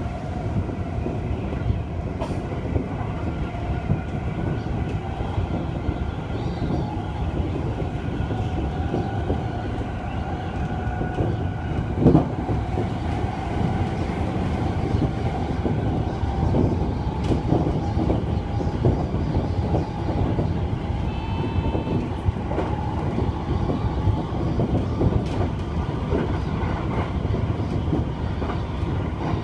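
Running noise in the cab of an E231 series electric train gathering speed past 100 km/h: a steady low rumble of wheels on rail with scattered rail-joint clicks and a faint hum that slowly rises in pitch. There is one sharp knock about twelve seconds in.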